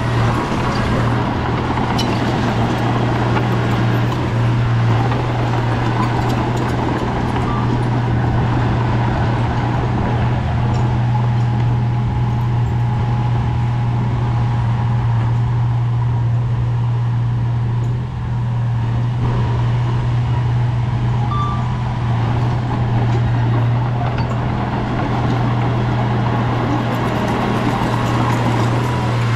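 Heavy diesel engine of an earthmoving machine running steadily, a strong low drone with mechanical noise over it, dipping briefly once about two-thirds of the way through.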